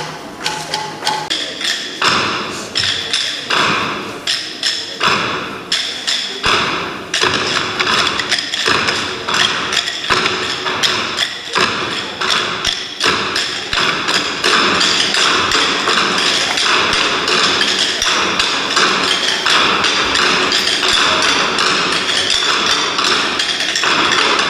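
Rhythmic percussion: a steady run of short taps and thumps, about two strikes a second at first, growing denser and louder about halfway through.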